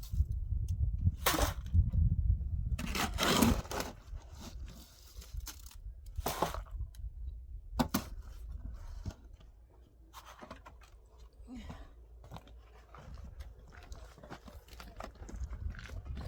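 Scattered scraping and crunching noises: a few loud, rough bursts in the first eight seconds, then fainter scratching, over a low rumble that fades after about four seconds.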